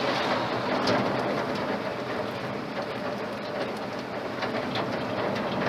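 Truck with a freshly rebuilt Ford flathead engine cruising in top gear: a steady drone of engine, road and wind noise.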